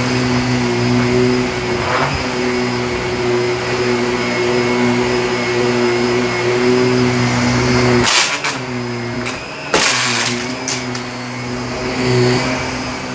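Shark vacuum cleaner running steadily on carpet, its motor holding an even hum. About eight and ten seconds in come two loud bursts of crackling, and the motor's pitch dips briefly between them before recovering.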